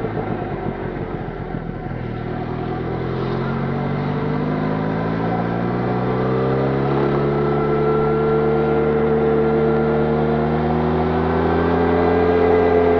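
Benelli Leoncino 500's parallel-twin engine through its stock exhaust. It sounds uneven and choppy off the throttle for the first couple of seconds, then accelerates with its pitch rising steadily, levels off, and climbs again near the end.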